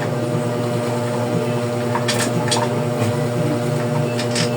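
A steady low mechanical hum, with a few light clicks of metal bicycle brake parts being handled and fitted, two about halfway through and two near the end.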